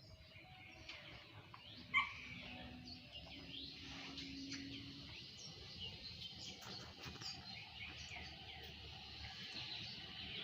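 Many small birds chirping and twittering at once, with one loud sharp call about two seconds in.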